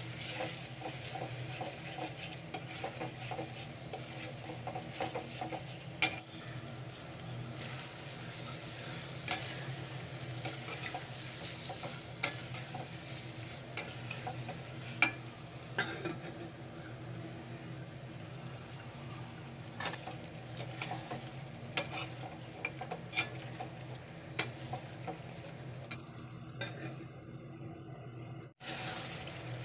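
Chicken and tomato masala frying and sizzling in an aluminium pot while a metal spatula stirs, with frequent sharp scrapes and taps of the spatula against the pot. Near the end the sizzling turns muffled.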